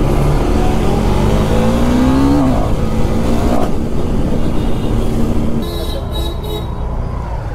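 Motorcycle engine accelerating in traffic. Its pitch rises for about two and a half seconds, drops, and climbs again to about three and a half seconds in. It then runs on more evenly and a little quieter near the end.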